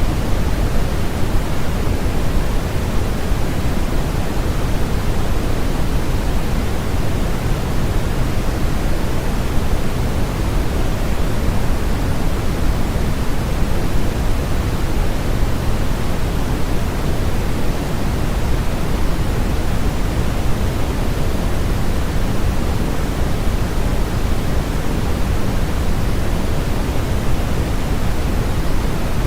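Steady synthetic noise from a sleep-aid track: a smooth, unchanging hiss with more weight in the low end than the high, so it comes across as a deep rushing rather than a bright one.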